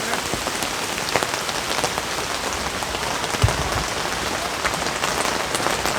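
A sudden downpour of rain: a steady hiss with many separate drops ticking on nearby surfaces. A dull low thump about three and a half seconds in.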